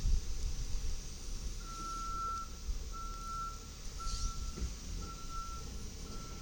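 Side-loader garbage truck's backup alarm beeping, about one beep a second, starting a couple of seconds in, over the truck's engine running.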